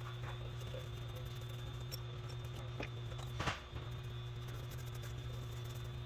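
A few faint light clicks and scratches of engine parts being handled, with one slightly louder click about three and a half seconds in, over a steady low hum.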